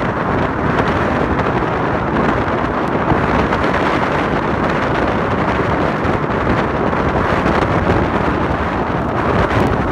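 A steady, loud rush of wind buffeting the microphone, over the rumble of a car driving on snowy roads.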